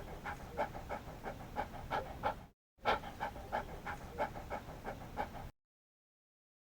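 An animal panting rapidly in a steady rhythm of about three breaths a second, breaking off briefly about halfway and then cutting off suddenly.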